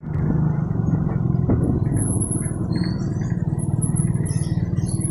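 Motorcycle engine running steadily while riding, a low pulsing rumble. Thin high whistling tones come and go over it from about two seconds in.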